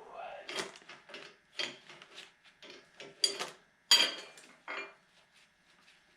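A series of irregular clinks, clicks and rustles from hands handling hardware. The loudest clicks come about three and four seconds in, and the sounds die away near the end.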